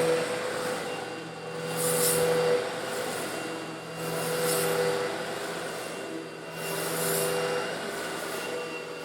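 Eureka vacuum cleaner running steadily with its motor hum, sucking up coarse stone granules that rattle and hiss up the nozzle. The hiss swells and fades about every two and a half seconds.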